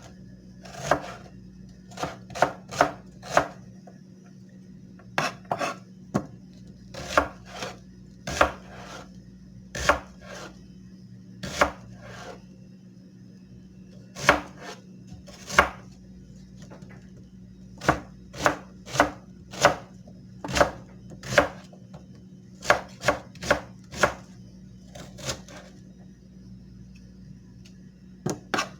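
Knife blade being sharpened in short, sharp strokes, about thirty of them in irregular runs of two to four with brief pauses between.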